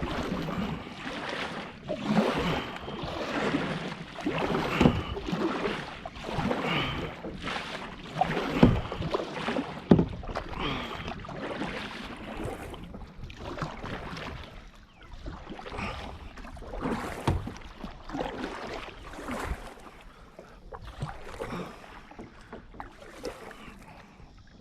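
Kayak paddle strokes splashing in pond water, about one a second, with a few sharper knocks around the middle; the strokes get fainter toward the end.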